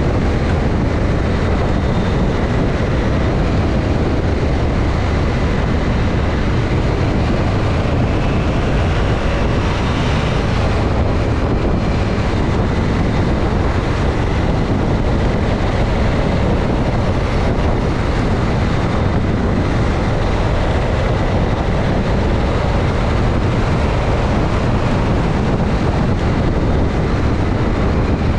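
Motorcycle riding at a steady speed: engine and wind noise over the microphone, with a constant rush of noise and no change in level.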